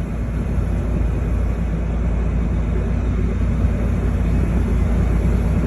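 Fishing boat's engine running steadily: a low, even drone with a wash of noise over it.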